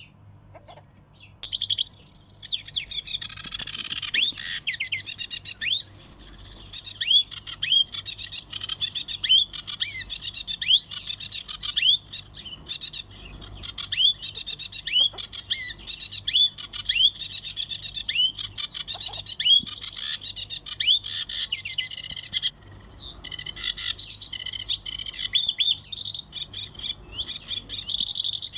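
Many small birds chirping and twittering together in a dense, continuous chorus of quick high notes and short downward-swept calls, starting about a second and a half in, with a brief lull near the end.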